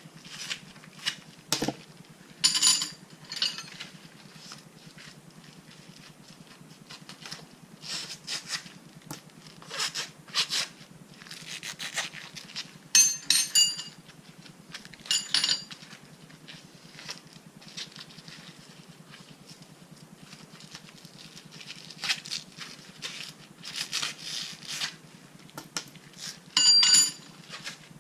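Irregular metallic clinks and taps of steel bolts and hand tools being handled and set down, several of them with a short bright ring.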